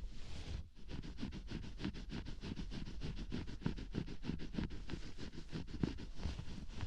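Rapid, close scratching and rubbing strokes on the ear of a binaural microphone, several strokes a second, as in ASMR ear scratching.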